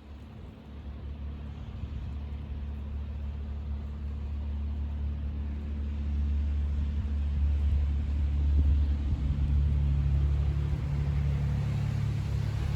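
A motor vehicle's engine running as a steady low hum that grows louder over several seconds as it comes closer.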